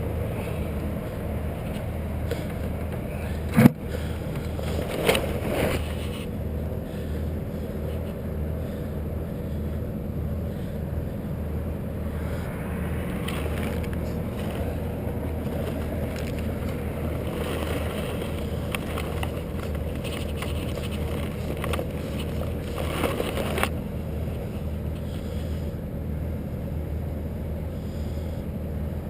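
A motor running steadily with a low drone, with a sharp knock about three and a half seconds in and a couple of brief scraping rustles.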